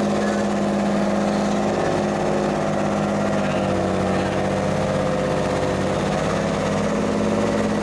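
John Deere 8270R tractor's six-cylinder diesel engine running with a steady, loud note.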